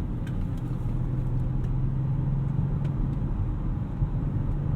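Audi RS6 Avant's twin-turbo V8 pulling under acceleration, heard from inside the cabin over road rumble, its low engine note rising slightly in pitch as the car picks up speed to pass.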